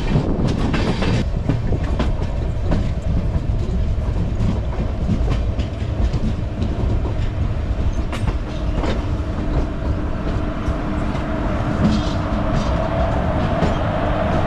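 Express train coaches rolling into a station, heard from an open coach window: a steady rumble with wheels clicking over rail joints. About nine seconds in, a steady whine joins in and keeps on.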